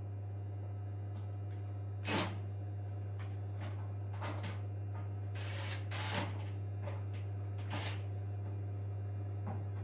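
Scattered knocks, clatters and scrapes of hand work on a washing machine under repair, over a steady low hum.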